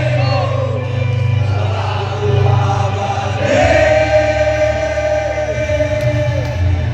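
Crowd of football supporters singing a victory anthem together, holding a long note in the middle.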